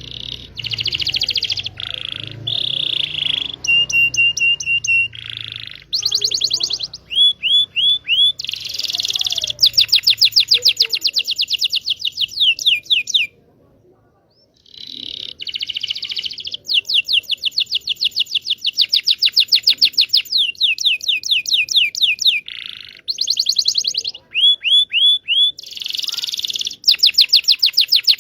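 Domestic canary singing a long, loud song of rolling trills and rapid runs of repeated down-slurred notes, with a pause of about a second midway. This is canary song used as a lure to get young or silent canaries to sing.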